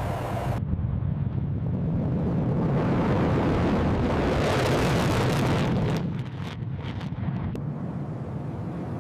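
Jet aircraft flyby: a rushing engine noise that builds to a peak about four to five seconds in, then drops off abruptly around six seconds and carries on lower.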